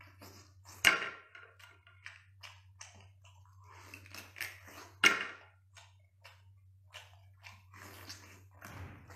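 Close-up wet chewing and mouth clicks from eating spicy marinated abalone, with two louder sharp sounds, one about a second in and one about five seconds in. A steady low hum lies underneath.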